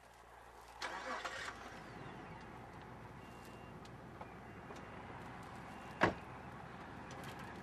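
SUV engine starting and then idling steadily, with a car door slammed shut about six seconds in.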